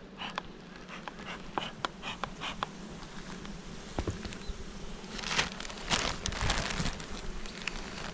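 Honeybees buzzing around an opened hive, with scattered sharp clicks and knocks from wooden hive frames and parts being handled. A stretch of louder rustling comes about five to seven seconds in.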